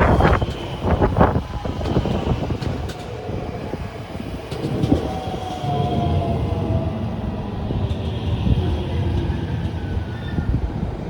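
Electric train running past at a station: a steady low rumble of wheels on rails with sharp clicks, and a whining tone that falls in pitch about halfway through.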